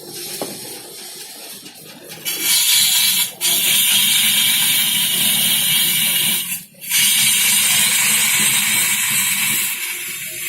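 A wood lathe runs with a steady motor hum. A tool works the spinning wood with a loud hiss that starts about two seconds in, breaks off briefly partway through, then resumes and eases near the end.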